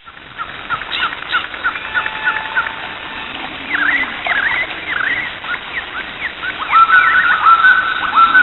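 Animal calls: a string of short, high chirps and squeaks with falling pitch, then a faster run of sharper, louder repeated calls in the last couple of seconds.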